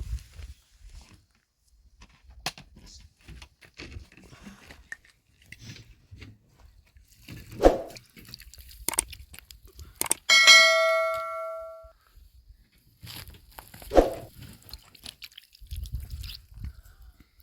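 Scattered knocks and thuds of objects being handled, with two heavier thumps, and one sharp metallic strike about ten seconds in that rings with a bright, bell-like tone for about a second and a half.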